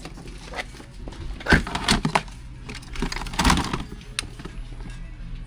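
A few knocks and clunks, the loudest about one and a half seconds in and again about three and a half seconds in, over a low steady hum.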